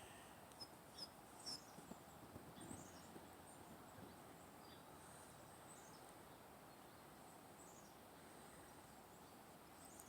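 Near silence with faint, high-pitched chirps of small birds: a scattering of short, falling notes.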